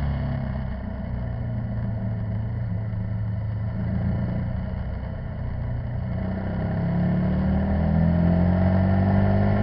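Motorcycle engine running steadily; its pitch drops about a second in, holds, then rises from about six seconds in as it speeds up.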